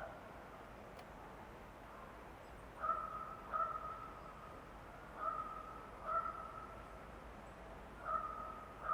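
An animal giving six short, harsh calls in rough pairs over a faint steady forest background.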